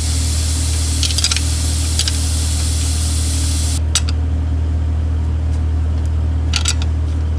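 A steady low machine hum under a hissing noise that cuts off suddenly about four seconds in, with a few light metallic clicks from work on the air brake chamber.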